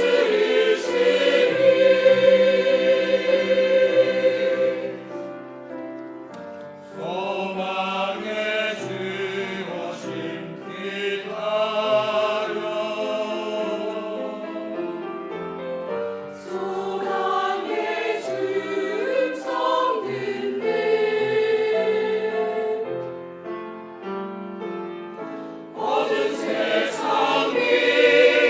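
A choir singing a sacred Christmas cantata piece, phrases swelling and falling back, louder again near the end.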